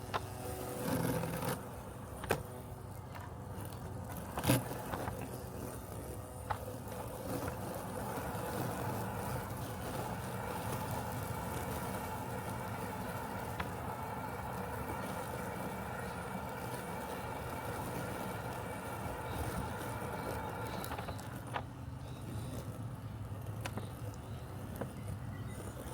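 Robotic lawn mower running with a steady mechanical hum and a motor whine that grows stronger through the middle stretch, with a few sharp clicks in the first several seconds.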